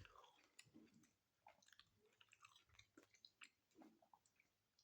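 Faint close-up chewing of a sandwich: soft wet mouth clicks and smacks, coming irregularly.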